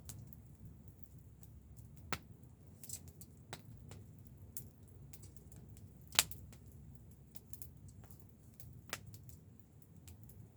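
Wood fire crackling: irregular sharp pops and snaps, the loudest a little past the middle, over a low steady rumble.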